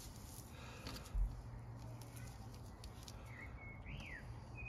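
Bird chirping in the background from about three seconds in: short whistled notes and one call that rises and falls. A dull low thump about a second in.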